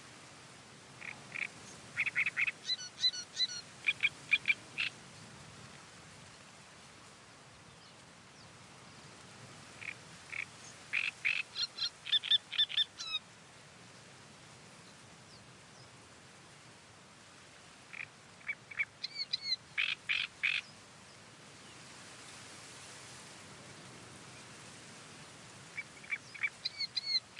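Reed warbler singing in four bouts of a few seconds each, a rapid chatter of short repeated notes. Between the bouts a steady hiss of wind in the reeds.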